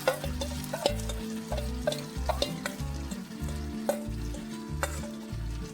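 Chicken pieces sizzling in hot oil with browned onions, stirred with a spatula that clicks and scrapes against the pan.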